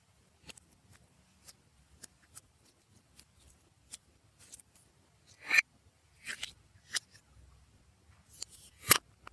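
Slime being squished and worked by hand: irregular sticky clicks and pops, with two louder squelches, one about halfway through and one near the end.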